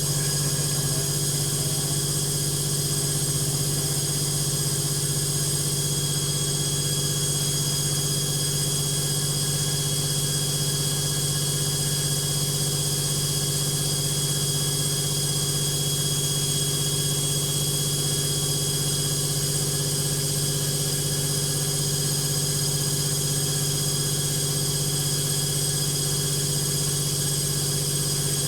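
Logik washing machine on its final spin with an unbalanced load, the drum running at high speed with a steady low hum and a high motor whine.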